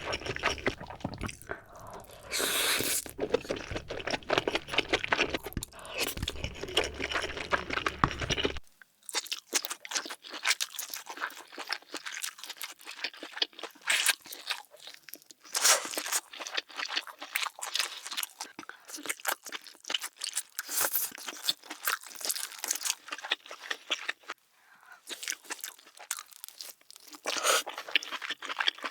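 Close-miked eating sounds: crunching, biting and chewing seafood, a dense run of quick wet clicks and cracks. A low background hum drops out about nine seconds in, where a different recording takes over.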